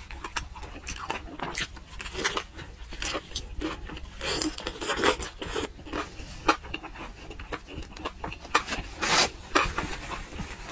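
Close-miked chewing of braised pork wrapped in lettuce leaves: quick, irregular wet smacks and clicks of the mouth.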